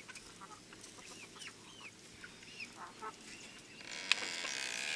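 Chickens giving short, soft calls, several in the first three seconds. About four seconds in, a steady hiss rises beneath them.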